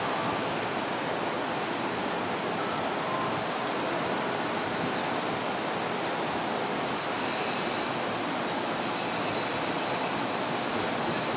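Seibu 10000 series Red Arrow limited express train pulling slowly out of the station: a steady running and rolling noise mixed with platform ambience. A brief higher hiss comes in about seven seconds in.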